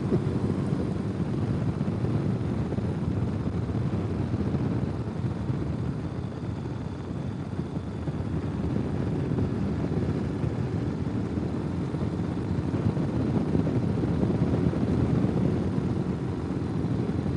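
Ural sidecar motorcycle's air-cooled flat-twin engine running steadily under way, with the level gently rising and falling.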